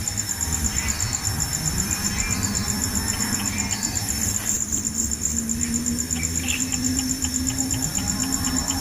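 High-pitched insect trilling, a fast, even pulsing that goes on without a break, with a few short faint chirps in the second half.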